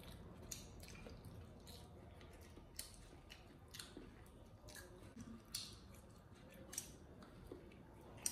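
Faint close-up eating sounds: chewing and wet mouth smacks from people eating chicken wings, with scattered short clicks every second or so.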